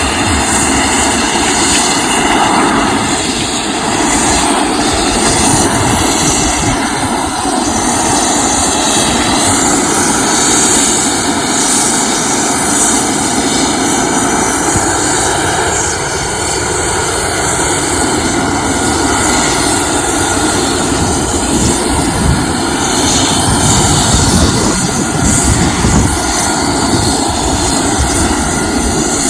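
Lockheed EC-130J Commando Solo's four turboprop engines and propellers running loud and steady.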